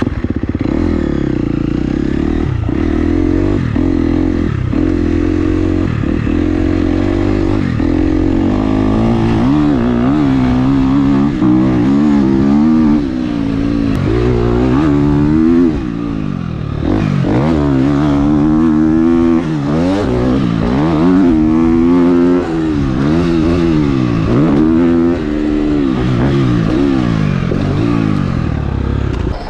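Dirt bike ridden hard around a motocross track, its motor's pitch climbing and falling over and over as the throttle is opened and shut, with a few sudden drops in pitch.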